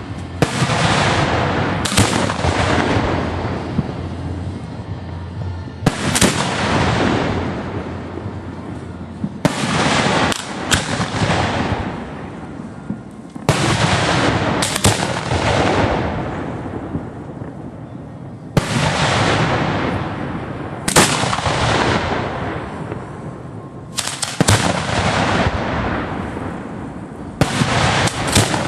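Aerial firework shells fired from mortar tubes at close range, a sharp report every few seconds, sometimes two in quick succession, each trailing off in a long rumbling decay.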